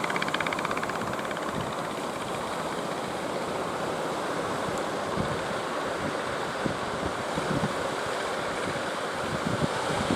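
Surf rushing at a river mouth, with strong wind buffeting the microphone in low gusts through the second half. A motor's fast rhythmic chugging fades out in the first second.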